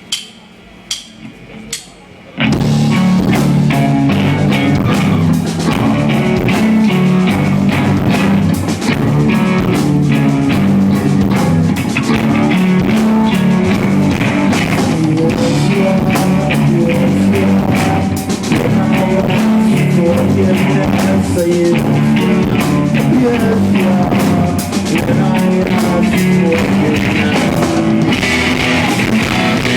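Live rock band with electric guitar and drum kit: a few sharp clicks, then the full band comes in loud about two seconds in and keeps playing.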